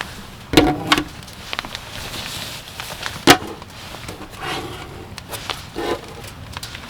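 Several sharp knocks of wood being struck, with light clatter between them. The loudest comes a little after three seconds in.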